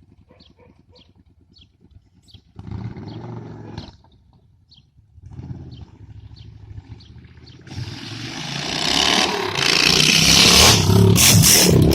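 Yamaha motorcycle engine running low at first with two short revs, then revving up and growing loud over the last few seconds as the bike pulls away or passes close.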